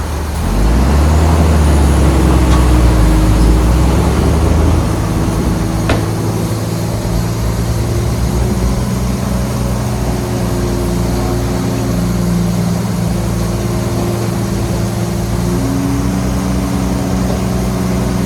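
Heavy diesel engine of earthmoving machinery running. It is louder and deeper for the first few seconds, then settles to a steady run. A single sharp click comes about six seconds in.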